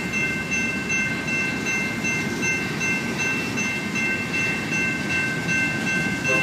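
Freight train of covered hopper cars rumbling through a grade crossing, wheels on rail, while the crossing's General Signals electronic bells ring on without pause, their tones held steady over the rumble.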